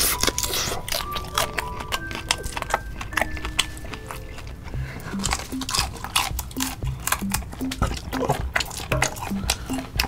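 Close-miked eating sounds: chewing, lip smacks and many short sharp clicks while eating boiled shrimp in spicy sauce. These play over light background music whose low notes repeat at a steady beat in the second half.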